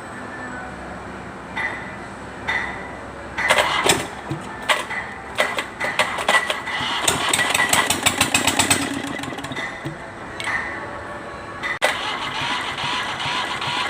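Kubota Z751 two-cylinder diesel engine, hard to start, being cranked: a couple of short bursts, then it fires and runs in quick uneven knocks, falters briefly, and after a sharp click runs on.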